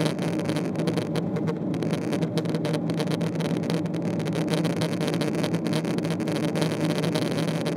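Boeing 777-300ER cabin noise: the steady drone of its GE90 turbofan engines and the rush of air past the fuselage, heard from inside the cabin, with a constant low hum.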